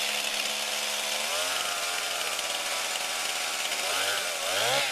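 A brand-new two-stroke chainsaw running on its first start-up, idling and being revved: the engine speed rises and falls about a second in, then climbs again to its loudest near the end.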